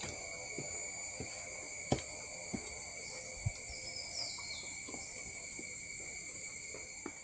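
Rainforest insects droning in several steady, high, overlapping tones, with a short falling call a little past the middle and a few scattered soft knocks.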